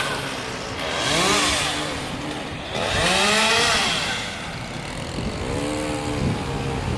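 Chainsaw engine revved three times, each rev rising and falling in pitch over about a second, dropping back to a lower run between revs.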